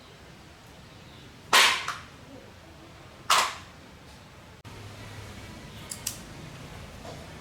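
Two loud, sharp impacts about two seconds apart, each with a short noisy tail, followed later by two light clicks.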